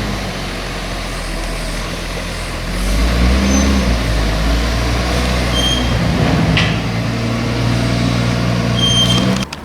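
A vehicle engine running steadily, growing louder about three seconds in, then cutting off suddenly just before the end.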